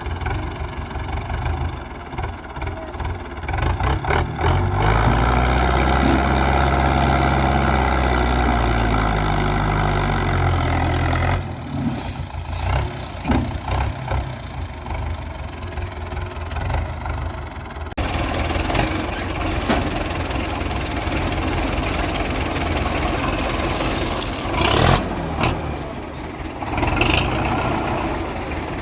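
Tractor diesel engine running and labouring under a heavy load, revving up and then easing back down between about 5 and 11 seconds in. The sound changes abruptly twice, and is noisier after the second change.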